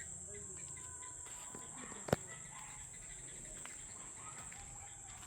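Steady high-pitched chorus of crickets or similar insects, with faint bird calls over it and one sharp click about two seconds in.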